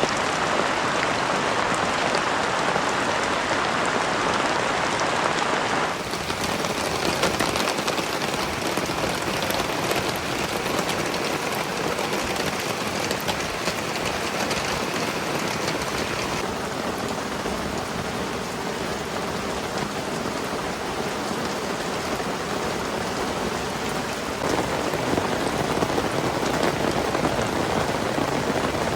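Heavy rain falling steadily, a dense hiss of drops on surfaces, whose tone shifts abruptly a few times.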